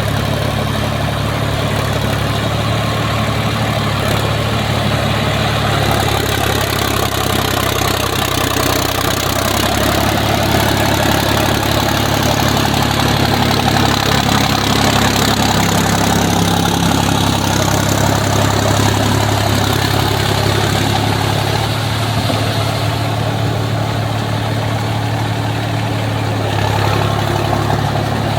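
Sonalika Tiger DI 50 tractor's diesel engine running steadily while pulling a plough, its note shifting slightly about ten seconds in.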